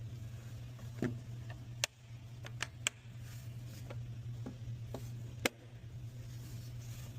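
Several sharp, separate clicks and knocks, the loudest about two, three and five and a half seconds in, over a steady low hum.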